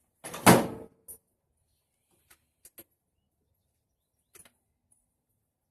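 A heavy thud about half a second in as a lawn tractor battery is set down, followed by a few faint clicks and light knocks of handling.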